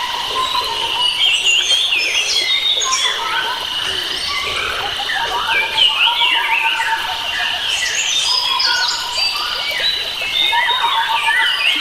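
A chorus of many wild birds singing and calling at once, with overlapping chirps and whistles and a steady high trill running under them, over a low rushing background.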